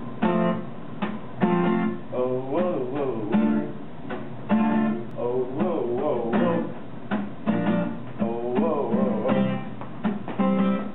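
Acoustic guitar strumming chords in a steady rhythm, with a wavering melody line over it, as a song's instrumental intro.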